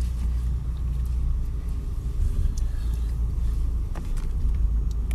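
Low, steady rumble of a car's engine heard from inside the cabin as the vehicle backs out, with a few faint clicks near the end.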